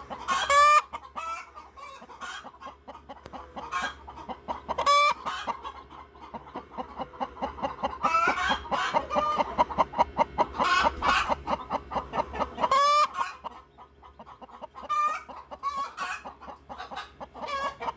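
Plymouth Rock chickens, a hen with her naturally hatched chicks, calling and clucking. Loud drawn-out calls come every few seconds, and a fast run of short clucks fills the middle stretch.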